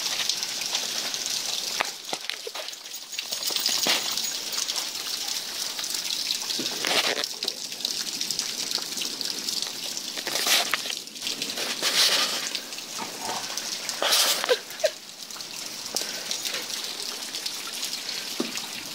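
Heavy rain falling in a steady hiss, swelling louder several times.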